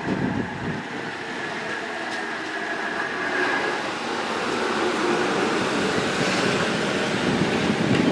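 JR Kyushu 811-series electric train pulling into the platform, its cars rolling slowly past with steady wheel-and-rail noise and a thin high squeal in the first few seconds.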